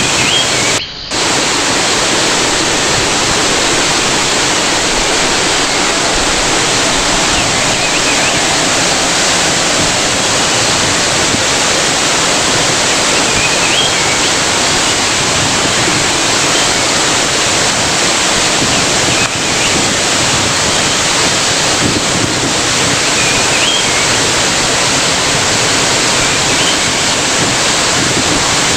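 Waterfall rushing, a loud steady roar of falling water, with a brief dropout about a second in. A few faint high chirps come through it now and then.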